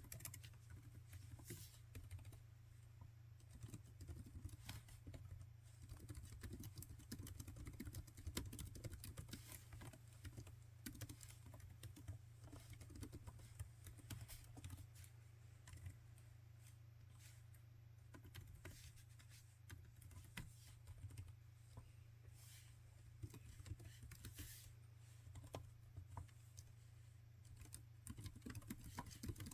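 Faint typing on a laptop keyboard: an unbroken run of quick key clicks, over a steady low hum.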